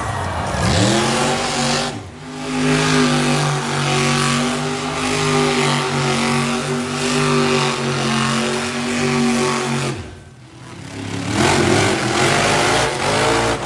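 Monster truck engine revving: the pitch climbs near the start, holds at high revs for several seconds, drops away briefly about ten seconds in, then revs up again.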